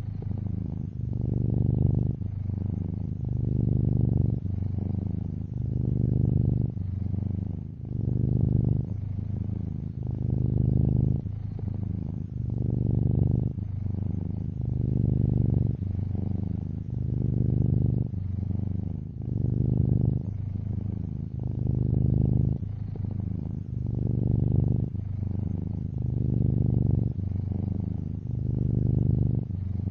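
Domestic cat purring steadily, the low rumble swelling and easing in a regular rhythm with each breath, about once every two seconds.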